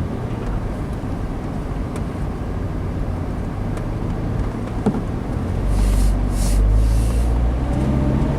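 Car driving, with steady road and engine rumble heard from inside the cabin; about six seconds in, a few seconds of hissing noise rise over it.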